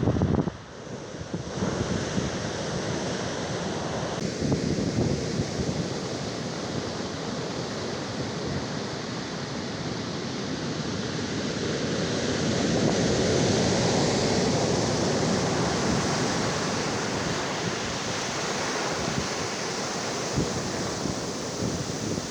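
Ocean surf on a beach of stones and coarse sand: a steady rushing wash of breaking waves that swells louder about halfway through as a bigger wave comes in.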